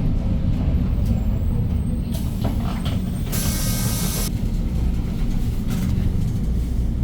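Hyundai New Super Aerocity city bus with its C6AF CNG engine running at a low, steady rumble. About three seconds in comes a sharp burst of compressed-air hiss from the bus's air system, lasting about a second, with a few faint clicks just before it.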